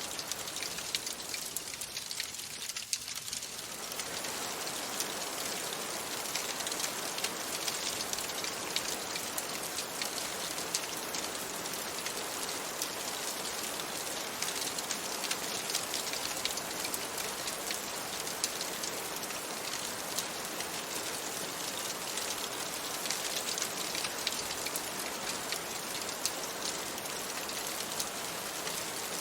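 Steady rain falling on a window, mixed with the crackle of a wood fire in a fireplace: an even hiss dotted with many small sharp ticks and pops.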